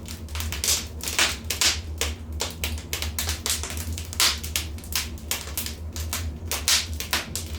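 Wood fire in a fireplace crackling and popping, with frequent irregular sharp snaps over a steady low rumble.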